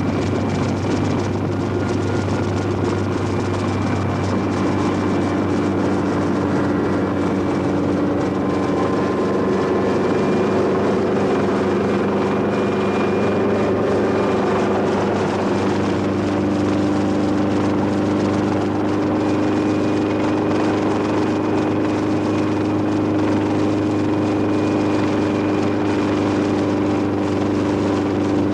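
Helicopter running steadily: a continuous rotor and engine drone with a faint steady high whine above it.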